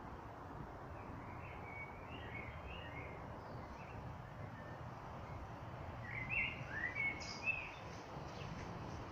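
Small birds chirping and singing in short, quick phrases over a steady outdoor hiss, the loudest phrases coming about six to seven and a half seconds in.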